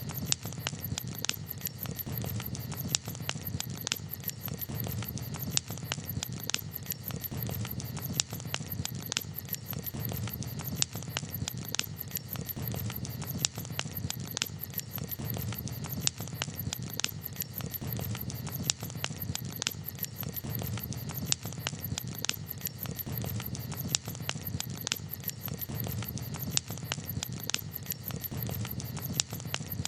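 Wood campfire crackling: frequent irregular sharp pops and snaps over a steady low rumble of the burning fire.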